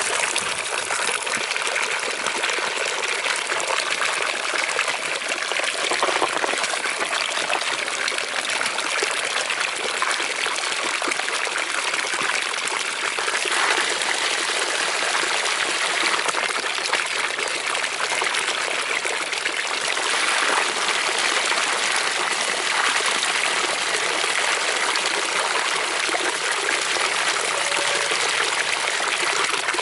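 Thermal spring water running and splashing steadily.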